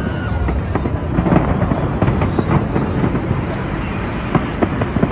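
Fireworks bursting in a dense run of irregular sharp bangs and crackles over a low rumble, with crowd voices underneath.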